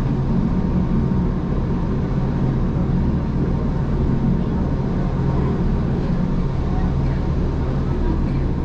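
Gornergrat Bahn electric rack-railway train running along the track: a steady low rumble with a constant hum.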